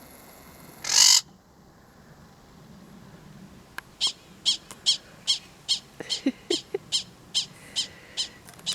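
A brief loud burst of noise about a second in. From about four seconds in, an animal gives a regular series of short, high chirping calls, about two or three a second.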